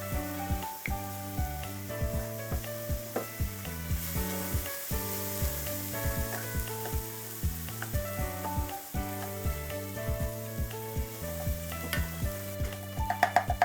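Monjayaki batter sizzling on an electric hot plate, with spatulas scraping and clicking, under background music with a changing melody.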